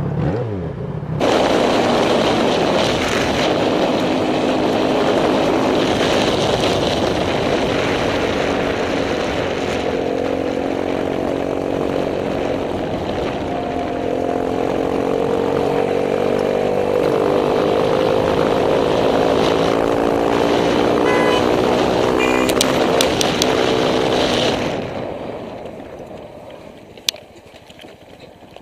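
Motorcycle riding at speed: the engine note rises and falls through acceleration under a heavy rush of wind noise, then fades away near the end as the bike slows.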